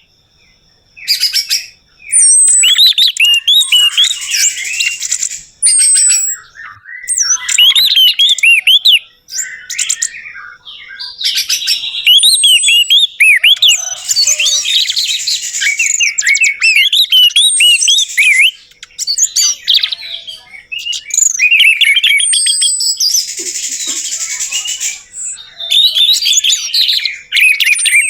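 Orange-headed thrush (anis merah) singing a loud, varied song of rapid whistled phrases with sharp falling whistles, in bursts separated by short pauses.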